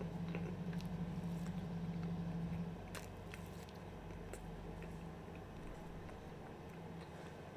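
A person chewing a mouthful of food close to the microphone, with small wet mouth clicks and smacks. A steady low hum runs underneath, dropping in level about three seconds in.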